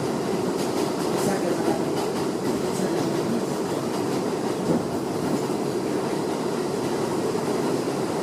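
R62A subway car running at speed, heard from inside the car: a steady rumble of wheels on the rails, with a few faint clicks in the first three seconds.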